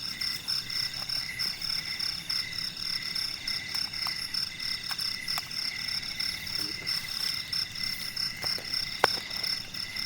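Night chorus of frogs and insects: steady, evenly pulsed high-pitched calls repeating several times a second, with a single sharp click about nine seconds in.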